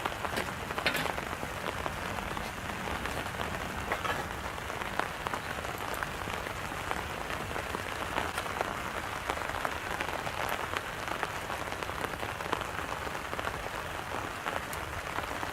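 Wood fire burning in a campfire stand: a steady crackling hiss with many small scattered pops.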